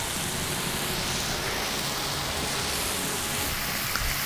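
Bacon strips, a sausage patty and pancake batter in mason jar rings sizzling steadily on a hot griddle.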